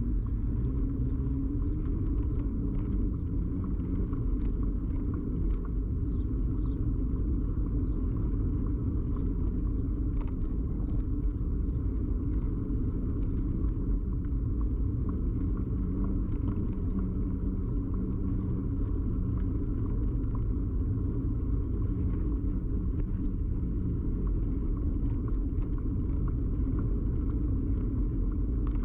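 Steady low rumble of a moving bicycle, picked up through a camera fixed to the bike frame, with faint rattling ticks scattered through it.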